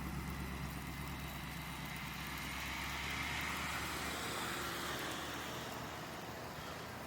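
A road vehicle going by: a low rumble that fades away, with road noise that swells about three seconds in and then dies down.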